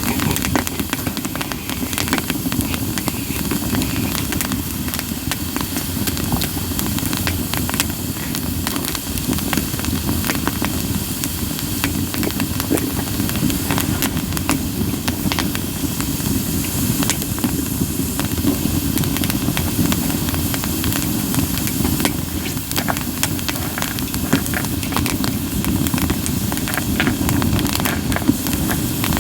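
Campfire of split sawtooth oak (kunugi) logs burning with a steady hiss and frequent sharp crackles and pops.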